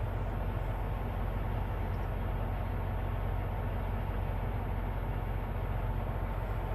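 Steady low hum of an idling semi truck's diesel engine, unchanging throughout.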